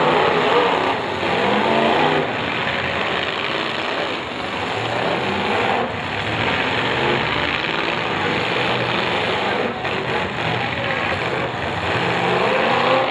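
Several demolition derby cars' engines running and revving as they drive around the dirt arena, with rising revs near the start and again near the end.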